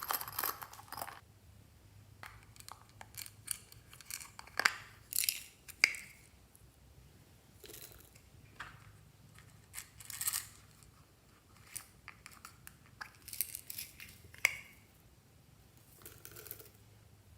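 Fluffy slime being handled and mixed by hand, giving irregular sticky clicks and short crackling pops that come in small clusters every second or two.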